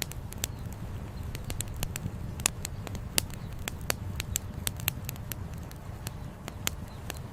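Wood campfire crackling, with irregular sharp pops and snaps from the burning firewood, a few louder ones near the middle, over a low steady rumble.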